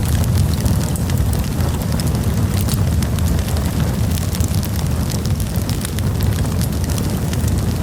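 Campfire burning: a steady low rumble of flames under frequent small crackles and pops.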